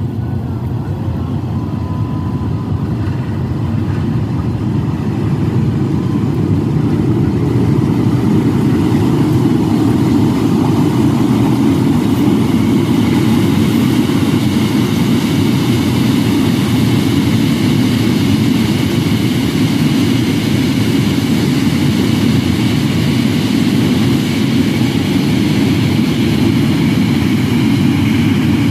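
Diesel locomotive hauling a long train of fuel tank wagons past: a loud low engine drone that builds over the first several seconds and then holds steady. From about halfway a higher rushing noise of the wagons rolling by joins it.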